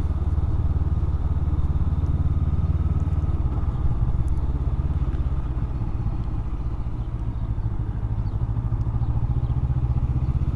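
Honda CB500X's parallel-twin engine running at low speed while riding, with a steady low hum that eases off a little midway and picks up again near the end.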